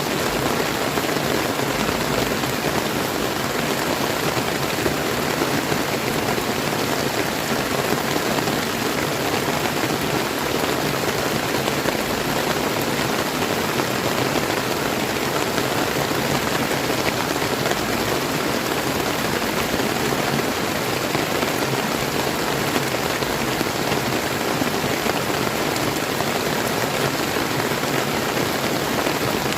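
Steady rain falling, mixed with the rush of a clear flowing river, an even unbroken hiss.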